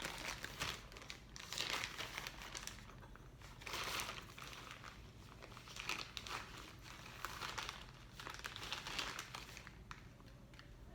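Packaging crinkling in irregular rustling bursts as brown sugar is scooped out with a tablespoon.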